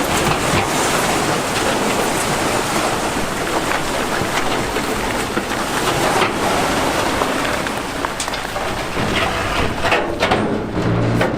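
Dense grinding and clattering of big rocks shifted by heavy earthmoving machinery, a steady rush with many small knocks of stone on stone.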